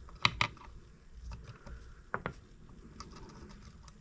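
Hand tools and a spark plug being handled on a small stationary engine, with the plug just unscrewed. There is a quick pair of sharp metallic clicks about a quarter second in, another click about two seconds in, and small scattered ticks between.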